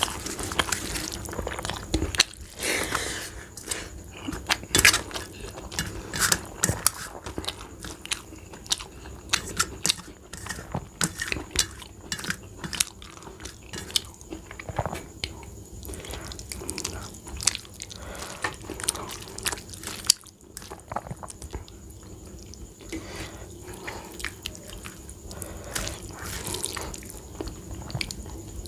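Close-up eating sounds: a person chewing mouthfuls of rice, dal and fried vegetables, with many irregular wet clicks and smacks of the mouth, along with fingers mixing rice on a steel plate.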